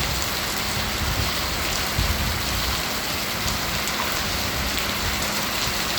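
Steady rain falling, an even hiss without pause, with a faint steady low hum underneath.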